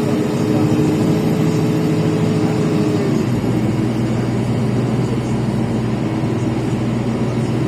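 LiAZ 5292.65 city bus's Yuchai diesel engine running under way, heard from inside the cabin; about three seconds in the engine note steps down and settles into a lower, steady drone.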